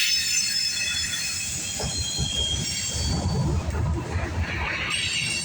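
Freight cars of a CSX mixed freight train rolling past with steel wheels squealing against the rails. Several high steady squeal tones ring over a continuous low rumble; they are strongest in the first couple of seconds, fade, and rise again near the end.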